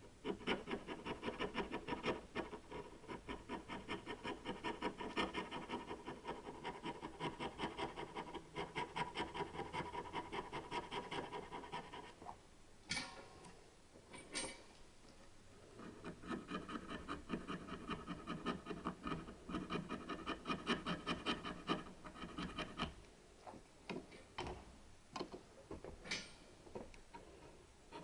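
Hard carbon deposits being scraped off an engine valve head in rapid back-and-forth strokes. The scraping stops about twelve seconds in, with a couple of sharp clicks, starts again a few seconds later and thins to scattered strokes near the end.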